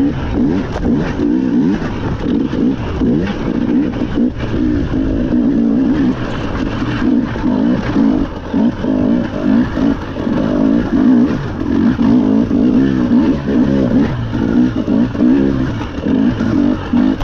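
Rally car engine driven hard, its revs repeatedly climbing and dropping with gear changes and lifts of the throttle.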